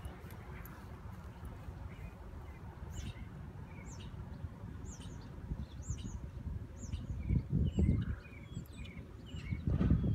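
Wild birds chirping: a run of short, high, down-slurred chirps about once a second, with lower chirps mixed in. Under them is a steady low rumble on the microphone that swells twice, near the end.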